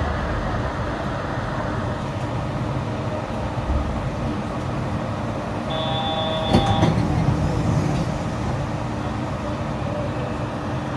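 Running noise of a Yurikamome rubber-tyred automated guideway train, a steady rumble and hiss heard from on board. About six seconds in a short pitched tone sounds for about a second, with a brief knock.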